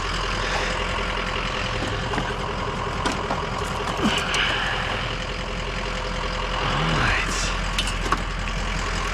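Vehicle engine running with steady road rumble, and a few small clicks and rattles on top.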